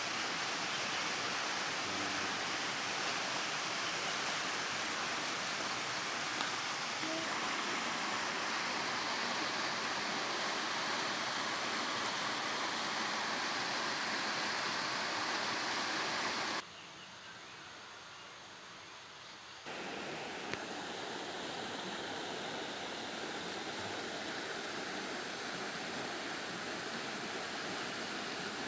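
Steady rush of flowing water. About two-thirds of the way through it drops to a much quieter level for about three seconds, then comes back a little softer than before.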